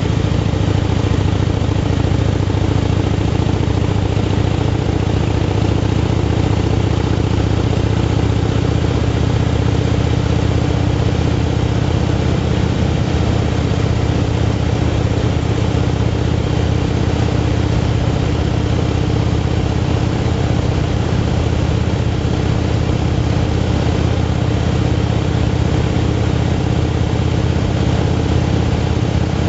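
Motorcycle engine running at a steady, unchanging pitch while cruising at road speed, over an even hiss of road and air noise.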